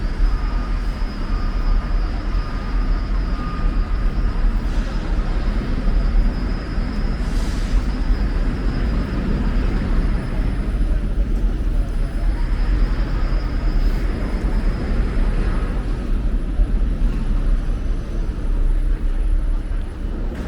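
Steady low rumble of city background noise, with faint thin high tones running over it.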